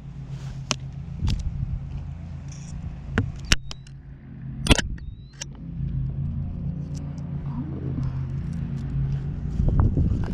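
Car engine running close by, a steady low hum that grows louder over the second half. Several sharp clicks and knocks in the first half.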